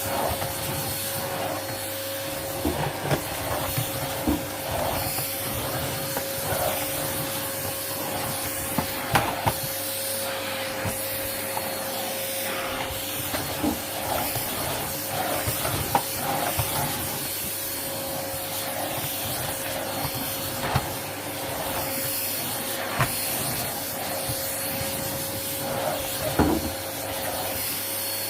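John Lewis 1.5-litre vacuum cleaner with a 700-watt motor running steadily while being pushed over carpet: an even rushing hiss with a steady whine, broken by scattered sharp clicks and knocks.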